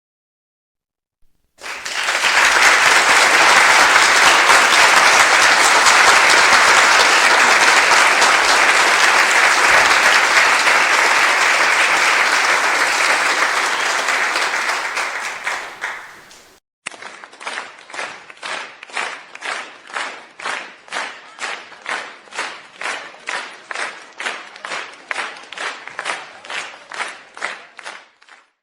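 Crowd applause, dense and steady, that starts suddenly after a second and a half of silence and dies away about sixteen seconds in. Then a separate recording of clapping in an even rhythm, about two claps a second, runs until just before the end.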